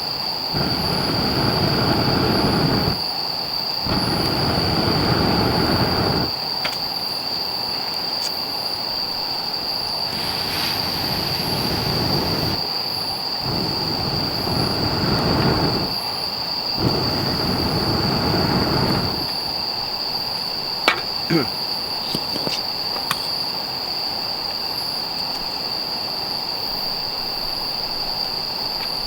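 A steady, high-pitched insect trill, such as crickets, runs throughout. It is overlaid by several stretches of loud, low rushing noise lasting a few seconds each, which start and stop abruptly and die away after about 19 s. A few sharp clicks follow a little past the 20-second mark.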